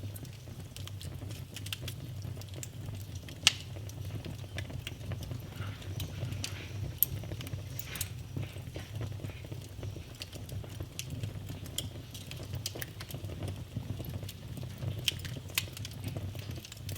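Wood fire burning in a fireplace: a steady low rumble of flames with scattered crackles and pops, two sharper pops about three and a half and seven seconds in.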